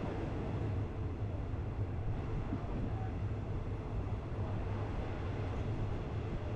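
Train running, a steady low rumble with no breaks or distinct events.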